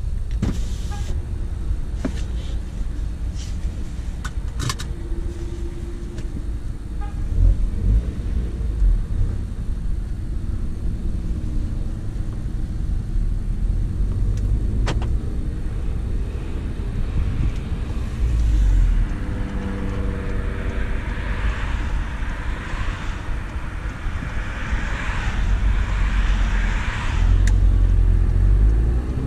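In-cabin sound of a VW Golf GTI MK7's turbocharged 2.0-litre four-cylinder engine, APR Stage 2 tuned with a CTS downpipe, running at a low, steady pace while driving. A few sharp clicks come in the first half, and the engine gets louder under throttle near the end.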